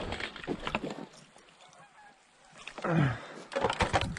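Mallard-type quacking: a few short calls, a pause, then a loud descending quack about three seconds in, followed by a quick run of shorter quacks.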